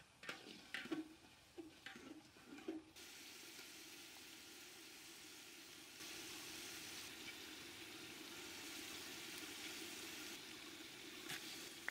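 A metal ladle scraping and stirring in an aluminium pot, a few strokes in the first three seconds, then a faint steady sizzle of meat and onions frying in the pot.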